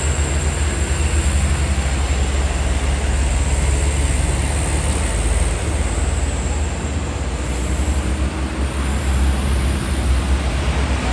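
Heavy diesel truck engine running with a deep, steady, rapidly pulsing rumble, easing off slightly about two thirds of the way through.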